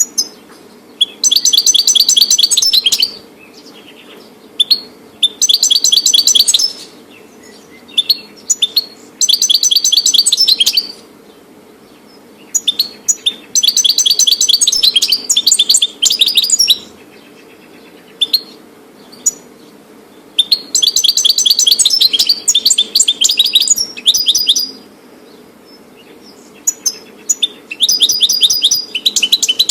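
European goldfinch singing: about six loud phrases of rapid, high twittering notes, each lasting two to four seconds with short pauses between, over a faint steady hum.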